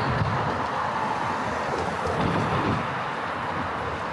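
Steady street traffic noise from passing vehicles, with a low rumble underneath.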